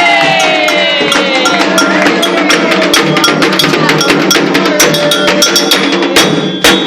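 Afro-Brazilian ritual drumming: atabaque hand drums struck in a fast, dense rhythm with a ringing bell. A sung chant slides down in pitch during the first second or two.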